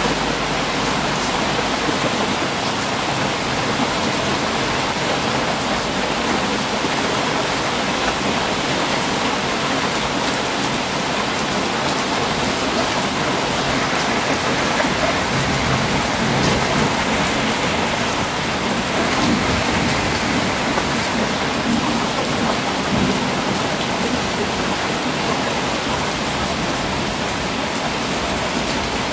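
Heavy rain falling steadily: a dense, even hiss of drops that holds at a constant level.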